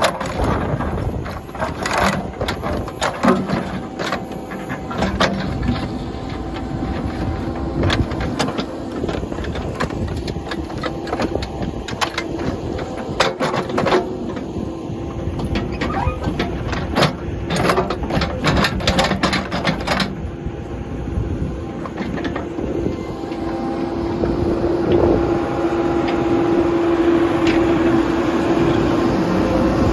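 Tractor backhoe's engine running steadily while digging, with many sharp metallic clanks and knocks through the first two-thirds. The engine note grows louder and steadier near the end.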